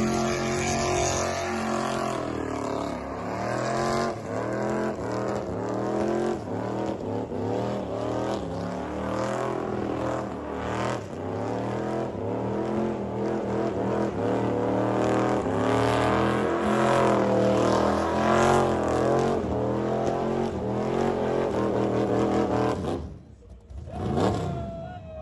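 A high-revving car engine revved hard over and over at a burnout or drift, its pitch climbing and falling in repeated sweeps. It cuts off suddenly near the end.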